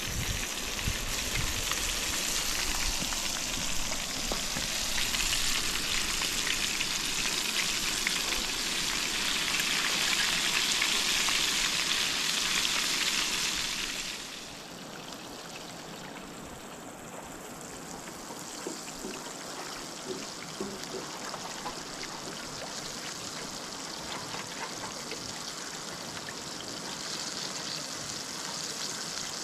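Pieces of jundiá catfish frying in a pan, a loud steady sizzle that drops away sharply about halfway through, leaving a softer steady hiss.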